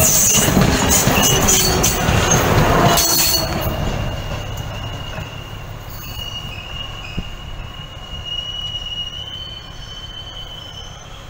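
Class S8 diesel multiple unit rolling past close by, its wheels clattering over the rail joints for about three seconds. It then fades as the train moves away, leaving a thin, high, steady wheel squeal as it recedes.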